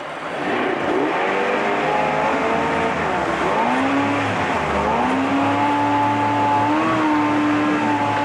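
1994 Mercury 40 hp two-stroke outboard running in a test tank. About half a second in it revs up from idle, its pitch dips and climbs twice, and then it holds steady at higher revs.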